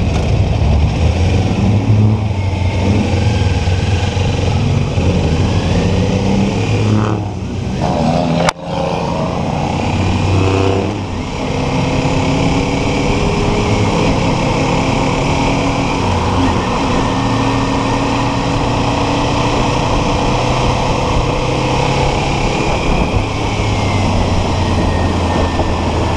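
Kawasaki Ninja 400 parallel-twin engine pulling through the gears with wind noise: the pitch climbs, breaks off at a shift about seven to eight seconds in with a sharp click, climbs again, dips at another shift around eleven seconds, then holds steady at cruising speed.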